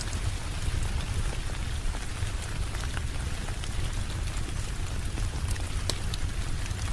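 Steady rain with a deep low rumble underneath, and scattered sharp clicks over it.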